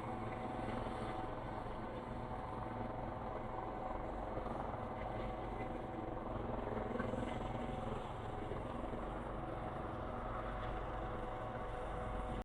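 Military aircraft engines running with a steady drone that holds many steady tones and stays even throughout.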